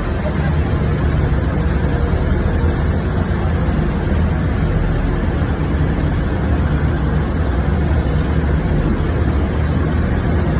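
A train's engine running steadily: a loud, even low rumble that does not change.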